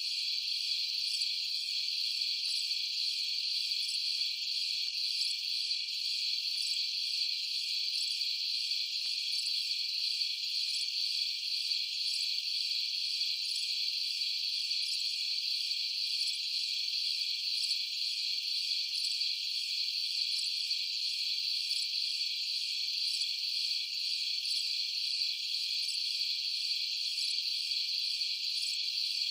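Steady night chorus of crickets: a dense, unbroken high trill with fainter pulses repeating evenly above it.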